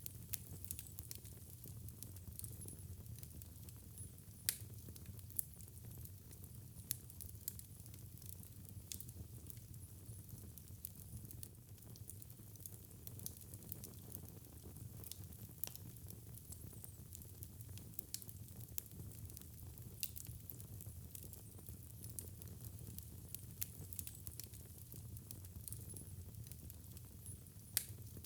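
Wood fire crackling in a fireplace: frequent sharp snaps and pops, a few louder than the rest, over a low steady rumble.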